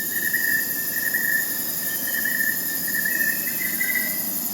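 Crickets chirping steadily in a dense, pulsing high trill, with a fainter, higher insect drone above it.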